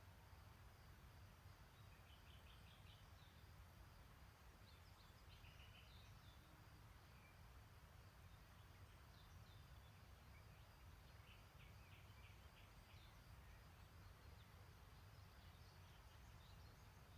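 Faint distant birdsong: short runs of quick high chirps every few seconds over a low steady rumble.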